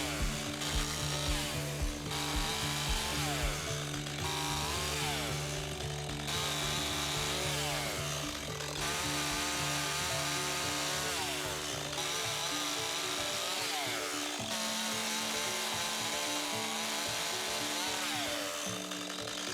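Chainsaw cutting logs in a series of cuts, the noise breaking off and starting again every couple of seconds, with falling pitch as the chain slows between cuts. Background music with steady held chords plays throughout.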